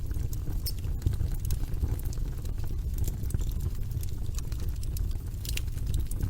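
Log fire burning in a fireplace: a steady low rumble of the flames with frequent irregular crackles and pops from the burning logs, a brief run of louder pops about five and a half seconds in.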